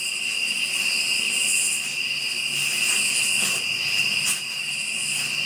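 Night insects, crickets or katydids, calling in chorus as a steady high-pitched trill, with a higher raspy call coming and going every second or two.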